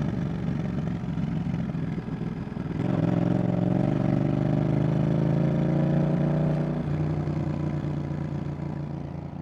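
Yamaha XSR700's 689 cc CP2 parallel-twin running through a Roadsitalia aftermarket exhaust. About three seconds in, the engine note gets louder and climbs slowly under throttle for around four seconds, then drops back to a lower, quieter note that fades near the end.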